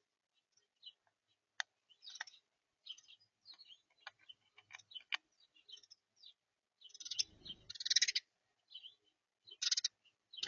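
Small birds at a feeder giving short high chirps and calls, with scattered sharp ticks. About seven seconds in there is a louder rustling noise lasting about a second, and another brief one near the end.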